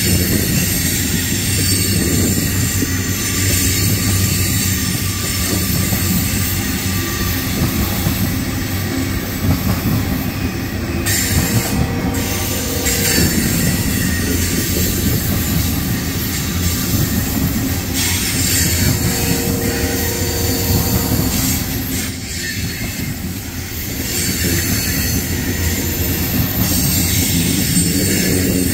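Freight train of tank cars rolling past at close range: a steady rumble and rattle of steel wheels on the rails, with steady squealing tones from the wheels coming and going twice in the middle.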